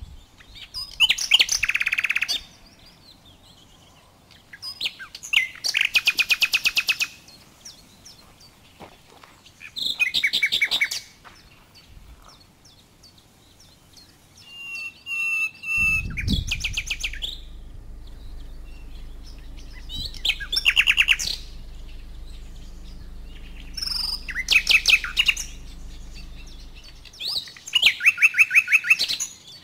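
A songbird singing in repeated rapid trilled phrases, each about a second long, coming roughly every four seconds. A low steady rumble runs underneath through the second half.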